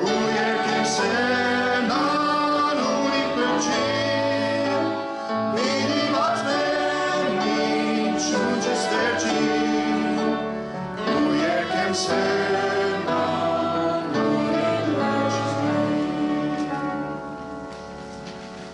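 Singing with instrumental accompaniment, a sung piece in a church service, fading out near the end.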